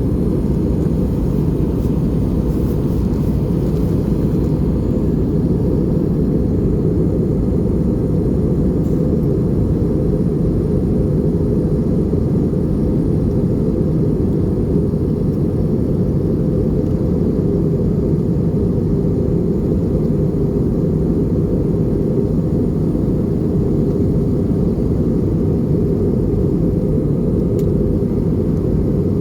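Steady cabin noise of an Airbus A320 in flight: engine and airflow drone, a deep even rumble that holds level throughout.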